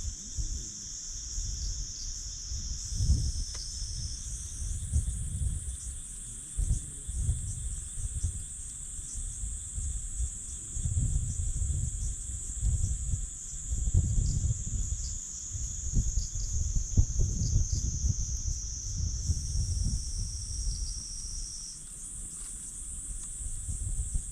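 Insects trilling steadily in several overlapping high-pitched tones, one band stepping up in pitch about three and five seconds in. Underneath runs a low, uneven rumble that swells and fades.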